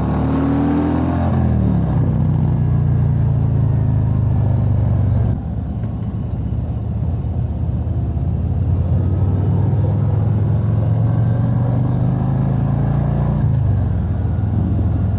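Harley-Davidson Road Glide's V-twin engine running under way, heard from the bike. Its note falls over the first second as the rider eases off or shifts, then holds steady at cruise, dropping slightly near the end.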